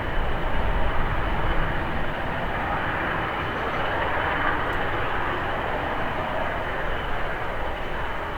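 Airbus A321 jet engines during a landing, a steady rush that swells around the middle and then eases. Strong wind buffets the microphone throughout with a low rumble.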